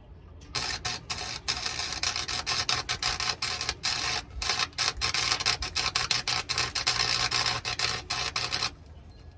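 Welding arc crackling steadily on a truck's exhaust pipe in one long run of about eight seconds, with a few brief breaks. It starts about half a second in and cuts off near the end.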